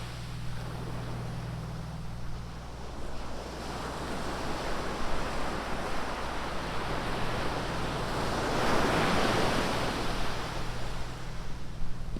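Ocean surf breaking on a beach: a continuous wash of wave noise, with one wave building and breaking loudest about nine seconds in before easing off.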